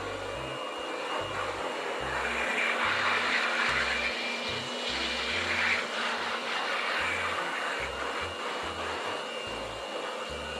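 Corded handheld electric blower running steadily, a high motor whine over the rush of air, louder for a few seconds in the middle.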